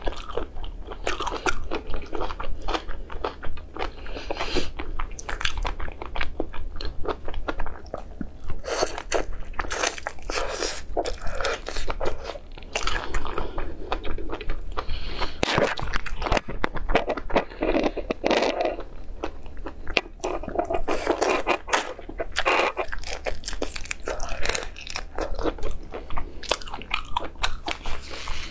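Close-miked mouth sounds of eating raw prawns: wet chewing with many sharp, crackly crunches and clicks from biting through the shells and flesh, going on without a break.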